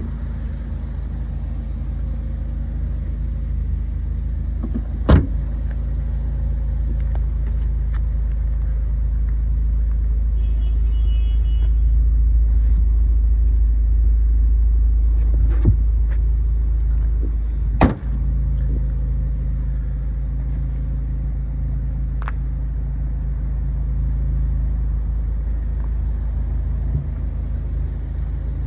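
Ford Focus ST3 Mountune's engine idling steadily: a low, even rumble. Several sharp knocks sound over it, the loudest about 18 seconds in.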